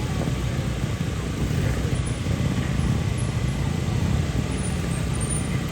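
GasGas 300 two-stroke motorcycle engine running at low revs, a steady low rumble.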